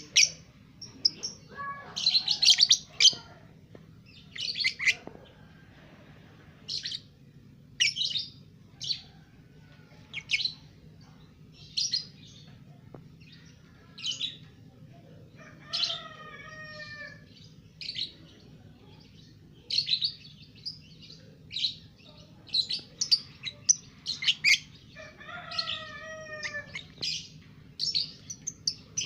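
Young lovebird chirping in short, sharp, high-pitched bursts about every one to two seconds, with a couple of lower, drawn-out calls partway through and near the end. A faint steady hum runs underneath.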